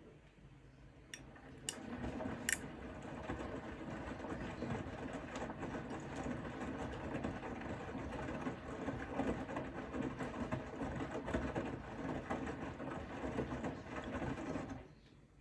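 Bosch Serie 4 front-loading washing machine's drum turning and tumbling the wet laundry. A few sharp clicks come first, then a steady churning that stops abruptly near the end, as at the end of one tumble phase of the wash.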